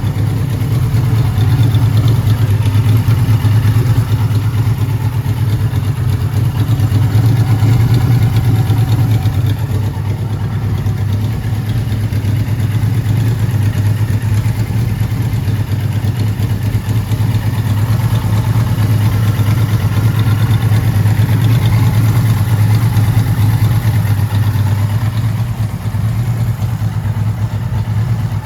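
1979 Kawasaki Z1000ST's air-cooled inline-four engine running steadily, fitted with pod air filters, with small swells in loudness from light throttle.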